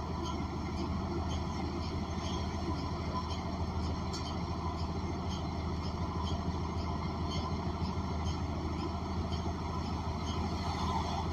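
Inside a 2014 New Flyer XN40 city bus: its Cummins Westport ISL G natural-gas engine runs steadily with a constant low hum, with faint scattered rattles from the cabin.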